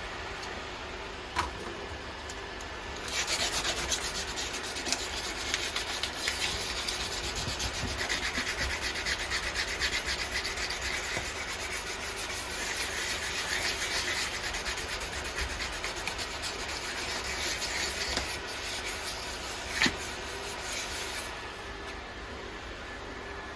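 Steady hand rubbing, like sanding, lasting about eighteen seconds, with a sharp click just before it starts and another near its end.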